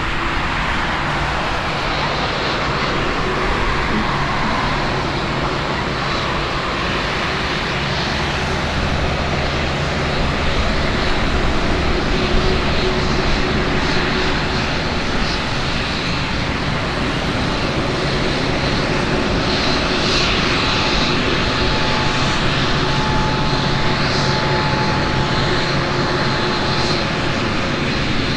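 Jet engine noise of a Boeing 787 airliner landing: a loud, steady rush with a few steady tones running through it.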